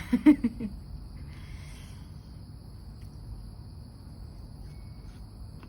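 Steady high-pitched chirring of insects such as crickets over a low background hum, with a brief vocal sound right at the start.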